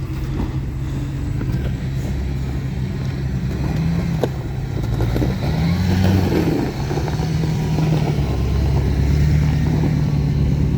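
Vehicle engine running and revving under load, its pitch rising and falling a couple of times, then holding steadier and a little louder in the second half.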